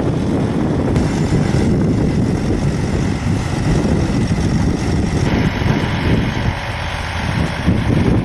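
Heavy-haul truck engine running steadily, pulling a loaded hydraulic trailer.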